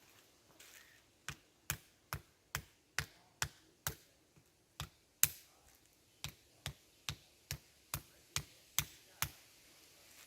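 Hammer blows, a steady run of sharp strikes about two a second with a short pause midway, typical of nailing or driving pegs during fence building.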